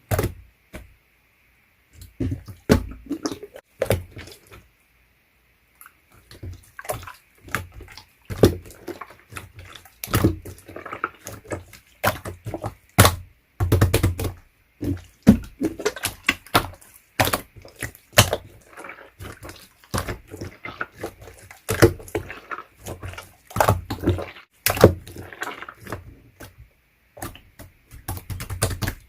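Hands squishing, pressing and stretching a chewy slime, making irregular wet squelches, pops and clicks. Two short pauses fall in the first six seconds.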